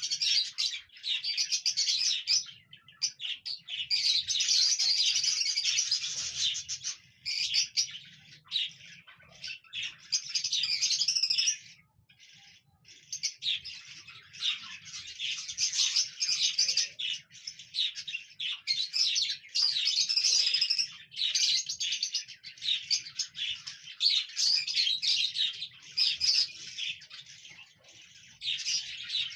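Cockatiels chirping and singing in a continuous stream of quick, high chirps, with a short lull about twelve seconds in.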